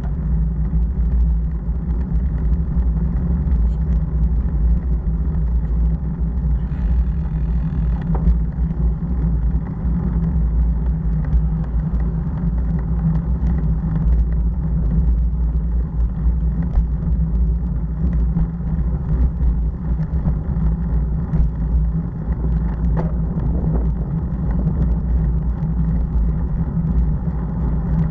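Motorcycle cruising at a steady speed: engine drone and heavy wind rumble on the microphone, with a brief hiss about seven seconds in.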